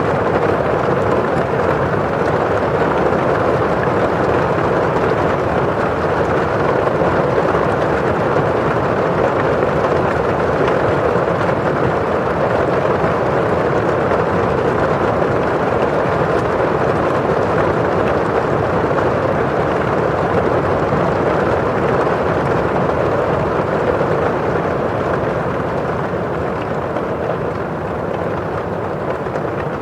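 Steady rain falling on a windowpane: a constant, even rush of drops on the glass and of rain outside, easing slightly near the end.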